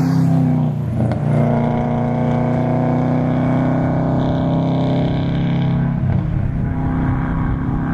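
2004 Subaru WRX's turbocharged flat-four running through a catless Spec D cat-back exhaust, holding a steady note under load. The note drops out briefly about a second in and again around six seconds in, as with a gear change or lifting off the throttle, then picks up again.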